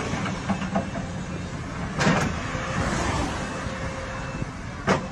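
A heavy vehicle's engine running steadily, with a sharp knock about two seconds in and another near the end.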